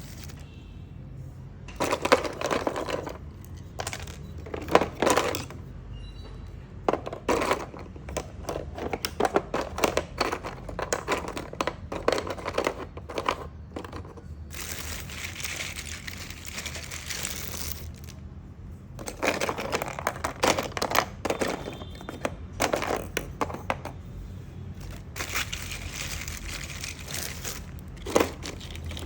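Small hard pieces, likely agarwood, being handled: irregular clicking, clacking and rustling in clusters of a second or two with short pauses, over a low steady hum.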